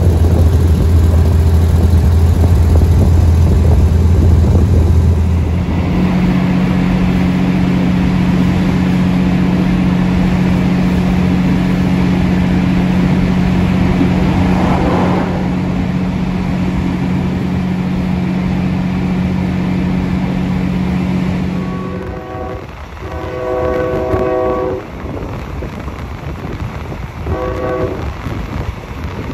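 Diesel-hauled passenger train running, heard from an open carriage window: a steady low engine drone with track and wind noise, which steps up in pitch about six seconds in. Near the end the locomotive horn sounds three times, two blasts close together and a shorter one a few seconds later.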